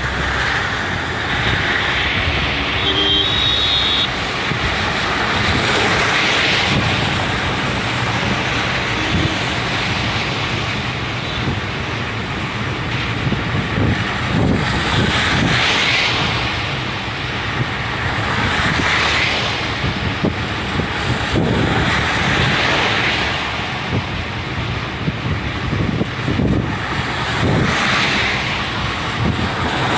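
Road and wind noise of a moving car, a steady rush that swells and fades every few seconds.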